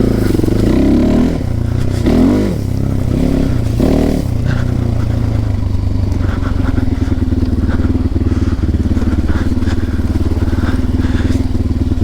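Small motorcycle engine revved up and down a few times over the first four seconds, then settling to steady, even running.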